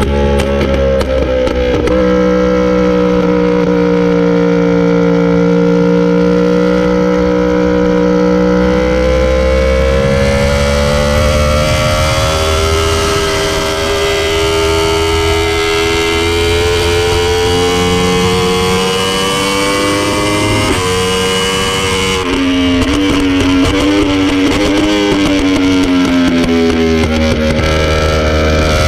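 Sport motorcycle engine running hard on a race track, its pitch holding high, then sliding down and back up through corners and gear changes, with a long falling stretch near the end.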